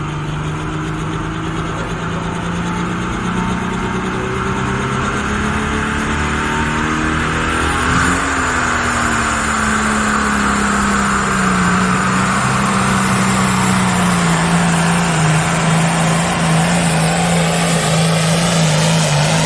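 Pulling tractor's diesel engine running hard, its pitch climbing to a peak about eight seconds in and then slowly sinking while the sound grows steadily louder.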